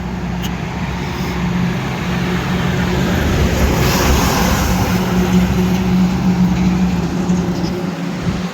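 Highway traffic: a heavy vehicle's engine running with a steady low drone, and tyre and road noise swelling to a peak about four seconds in as it passes, then easing and dropping away near the end.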